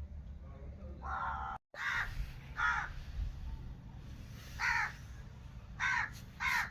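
A bird's short, harsh calls, repeated about six times at uneven gaps.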